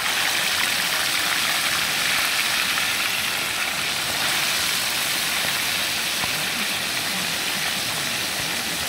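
Pieces of freshly caught catfish frying in hot oil: a steady sizzle, being cooked crisp.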